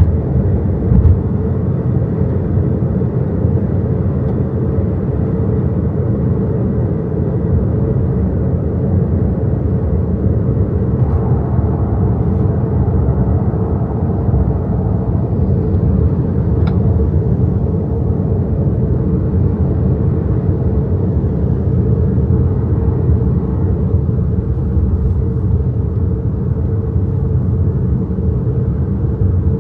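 Steady road and tyre rumble from the XPENG G6 electric SUV driving, with a short bump about a second in.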